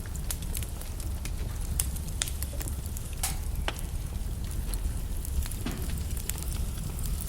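Wood logs burning in a fireplace, crackling with frequent irregular sharp pops and snaps over a low, steady rumble of the flames.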